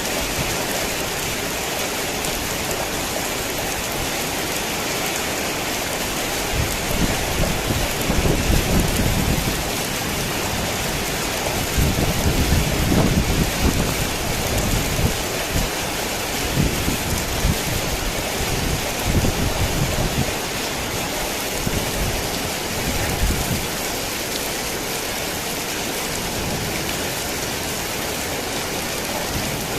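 Heavy rain falling steadily, with low rolling thunder rumbling in from about seven seconds in, loudest around thirteen seconds and fading out by about twenty-three seconds.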